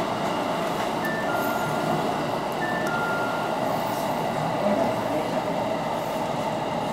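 Running noise of a JR 313 series electric train heard from inside the train as it slows into a station: a steady rumble and hiss. A falling two-note chime sounds twice, about a second in and again about two and a half seconds in.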